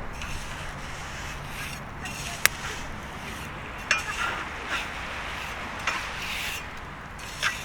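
Bonfire crackling, with a handful of sharp pops about a second apart over a steady low rush.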